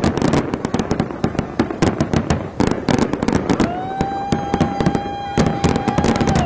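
Fireworks display: a rapid, unbroken string of sharp bangs and crackles from bursting shells. A little past halfway, a steady high tone starts, rising briefly and then holding for about three seconds over the bangs.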